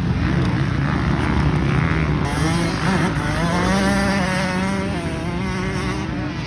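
Honda CRF250 four-stroke motocross bike engine being ridden hard, its pitch rising and falling as the rider opens and closes the throttle.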